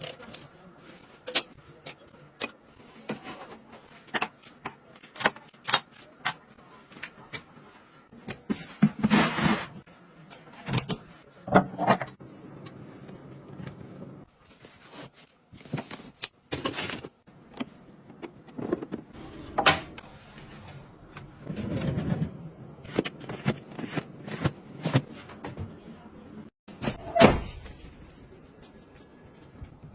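Irregular clicks, knocks and short scraping or rustling bursts of small household objects being handled.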